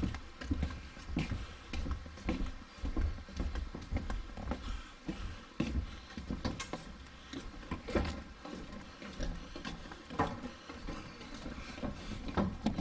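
Footsteps walking along a trail, a step about every half second.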